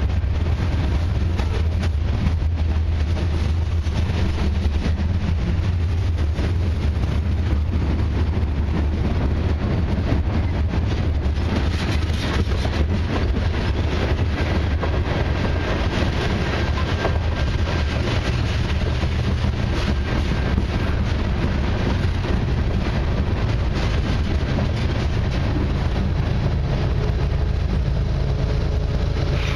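Freight cars of a long mixed freight train rolling past: a steady low rumble of wheels on rail with many small clicks and rattles. Near the end a steady engine hum joins in as the mid-train diesel locomotive draws near.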